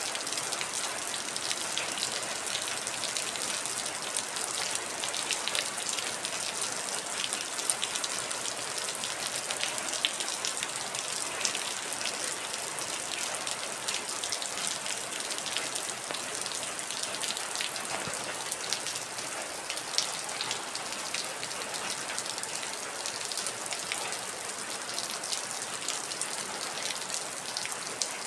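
Steady heavy rain falling, with many individual drops pattering on a surface.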